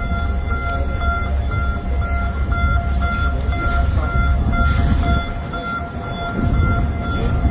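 A beeping alarm tone repeating in short pulses about twice a second, over a heavy low rumble.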